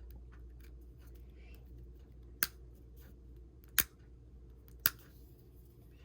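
Three sharp clicks about a second apart, with fainter ticks before them, over a faint steady hum: small handling taps as a replacement iPhone 6 battery is pressed into place in the opened phone.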